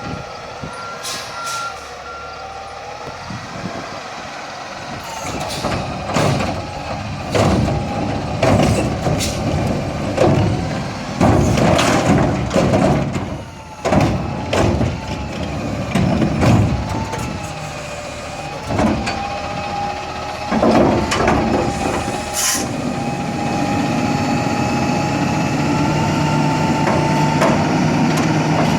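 Garbage truck working a collection stop: its engine running under many loud bangs and clanks through the middle of the stretch, then a steadier, louder engine-and-machinery hum over the last several seconds.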